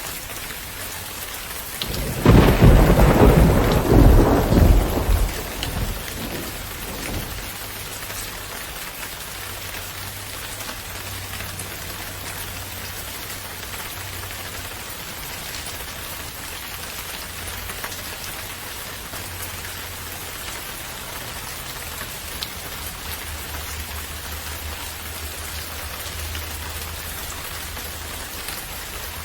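Steady rain falling, with a loud clap and rumble of thunder about two seconds in that rolls away over the next few seconds.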